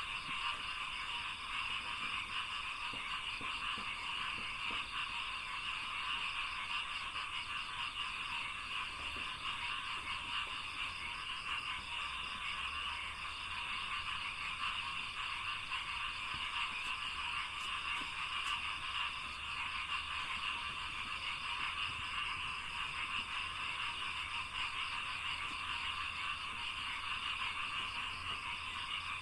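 Dense chorus of many frogs calling together in a flooded rice field: continuous, rapid pulsing calls that overlap into a steady wall of sound without pauses.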